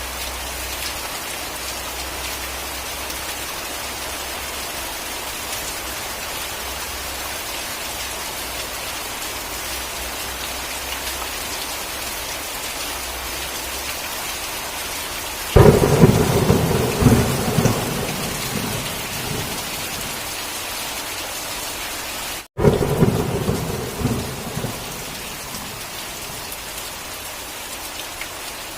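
Steady heavy rain, with a sudden loud clap of thunder a little past halfway that rolls and rumbles for several seconds. The sound cuts out for an instant, and a second burst of thunder rumbles and fades shortly after.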